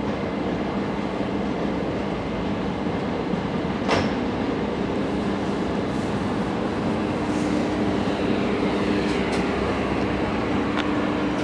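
DB Intercity coaches rolling slowly along a station platform: a steady rumble and low hum, with a sharp clack about four seconds in and a few lighter clicks near the end.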